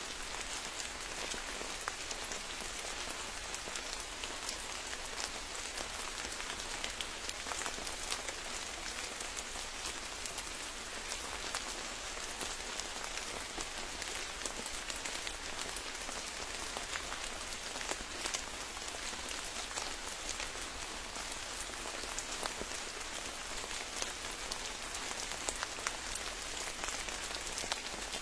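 Steady rain falling, with many individual drops pattering and ticking on surfaces close by.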